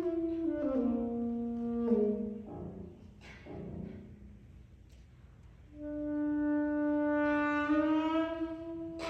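Alto saxophone with piano: held saxophone notes step downward, then a few piano chords are struck. After a quieter moment a long saxophone note swells and steps up near the end.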